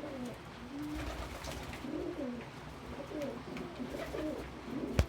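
Several doves cooing in a loft, low, bending coos repeating and overlapping one another. One sharp click near the end.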